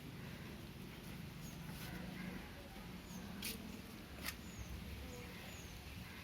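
Faint outdoor ambience in light rain: a soft even hiss with small high chirps now and then, and two sharp clicks near the middle.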